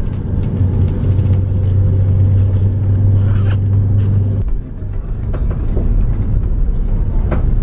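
Motor vehicle running, a steady low rumble of engine and road noise. A strong low hum drops away about four and a half seconds in, leaving the rumble, with a few small knocks.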